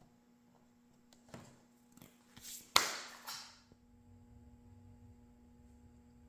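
Handling noise: a few light knocks, then one sharp clack with a brief rustle nearly three seconds in, then a faint low hum.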